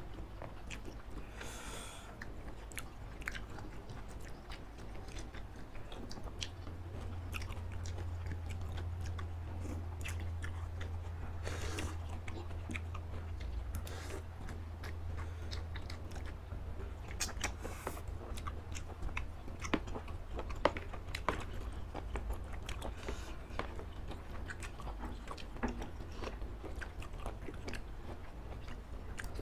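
Close-miked chewing and biting of noodles and baby octopus, with wet mouth sounds and many scattered sharp clicks, over a steady low hum.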